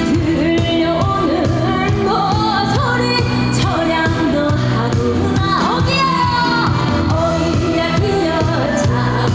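Trot song performed live: a woman singing a melodic line with slides and vibrato over amplified band accompaniment with a steady beat.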